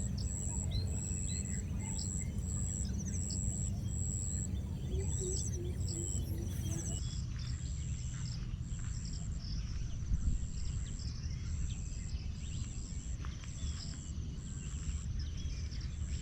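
Forest ambience: an insect calling in regular high pulses, with short bird chirps over it and a steady low rumble. The background changes abruptly about seven seconds in.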